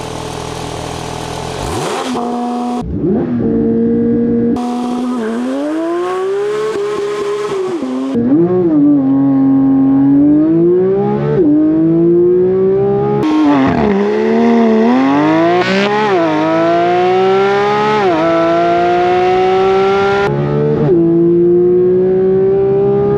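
Porsche 992 GT3's naturally aspirated 4.0-litre flat-six pulling hard through the gears: the engine note climbs steadily in pitch, then drops sharply at each quick upshift, about eight times, with a few brief dips and re-rises between pulls.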